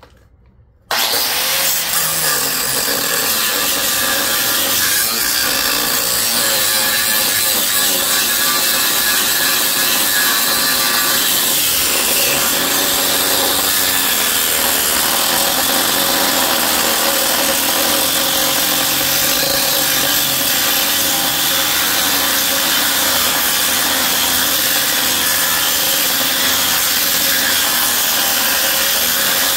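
Reciprocating saw cutting into a large transformer, starting about a second in and running steadily.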